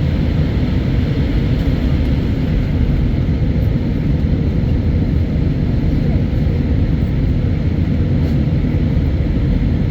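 Steady low rumble of an Airbus A319 in flight, heard inside the passenger cabin: jet engine noise and rushing air, unchanging throughout.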